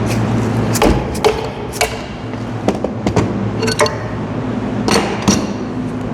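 Metal knocks and clinks as the cylinder housing of a paint pump's fluid section is worked loose. There are about eight uneven strikes, some with a short metallic ring, over a steady low hum.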